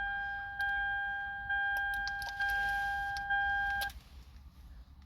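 Electronic warning chime in the 2008 Toyota Sienna: a steady beep tone that re-sounds about once a second and stops about four seconds in.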